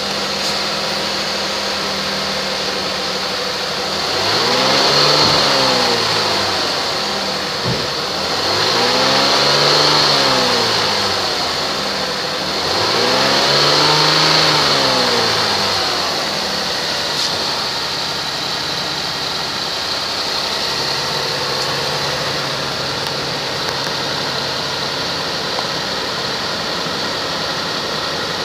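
2001 Toyota Highlander's 3.0-litre 24-valve V6 (1MZ-FE) idling, revved three times a few seconds apart starting about four seconds in, each rev rising and falling back over two or three seconds, then settling to a steady idle.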